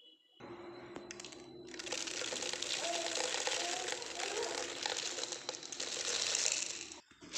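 Puffed rice (muri) being tossed and mixed by hand in a bowl: a dense crackling rustle of many small grains. It grows louder after about two seconds and stops briefly near the end.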